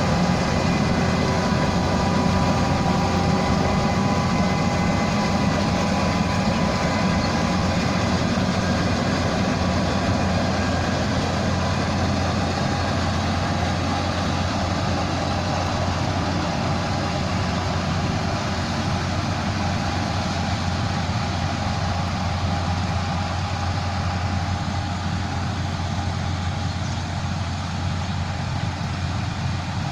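Rice combine harvester's engine and machinery running steadily in the field: an even low drone with a few steady whining tones above it, easing slightly toward the end.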